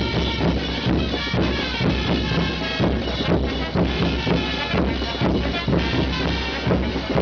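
Festival dance band music: wind instruments playing a sustained melody over a steady beat of drums.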